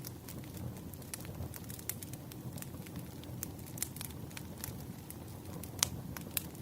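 Wood fire crackling: irregular sharp pops and snaps over a low steady rumble, with one louder pop near the end.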